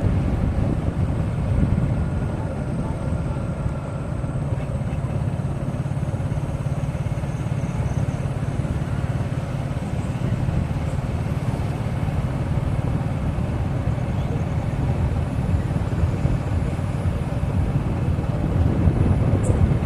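Steady low rumble of a motorcycle riding along a highway: engine and road noise.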